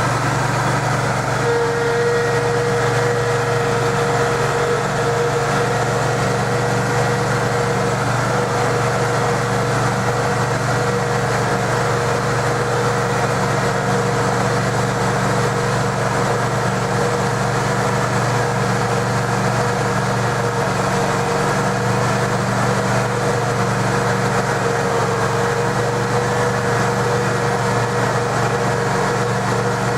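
Petrol engine of the Adam's Express trackless road train running steadily at idle just after starting, with a steady whine coming in about a second and a half in.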